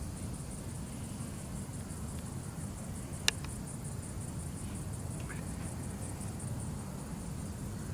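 Insects chirring steadily in a high, evenly pulsing trill over a low rumble, with one sharp click a little past three seconds in.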